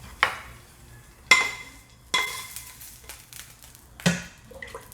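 Metal spoon striking a metal pot of broth four times while fried shallots are added: sharp clinks that each ring briefly.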